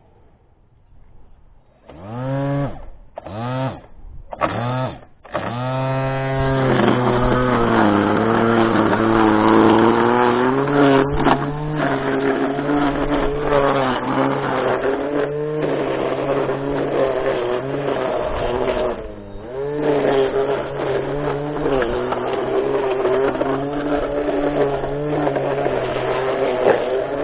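A small gasoline engine fires in a few short bursts that rise and fall in pitch, then catches about six seconds in and runs steadily, its speed wavering up and down, with a brief dip in speed near the two-thirds mark.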